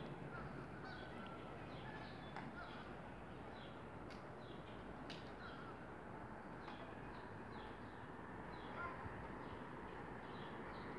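Faint birds chirping, short falling notes repeated every second or so, over a low steady background rumble.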